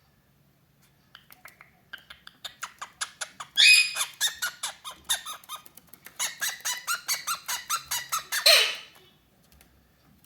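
Cockatiel chattering in a rapid, regular run of short notes, about five a second, with a louder falling squawk near the end.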